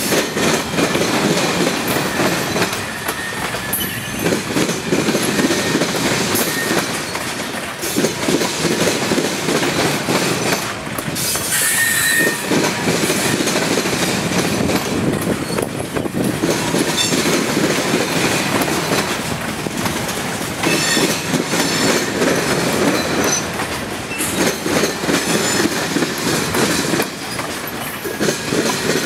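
Freight train cars rolling past, wheels clacking rhythmically over the rail joints, with a brief high wheel squeal about twelve seconds in.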